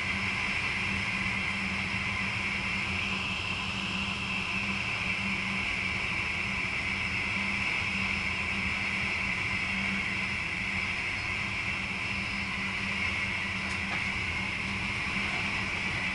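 Steady running noise inside the driver's cab of a VIRM double-deck electric intercity train: a constant low hum under an even hiss.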